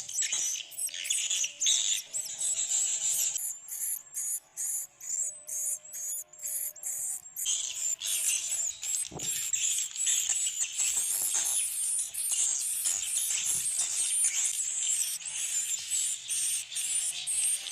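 A large colony of swiftlets twittering with high, busy calls mixed with rapid dry clicks, the echolocation clicks swiftlets use in the dark of a bird house. A run of evenly spaced clicks stands out where the twittering thins, about four to seven seconds in.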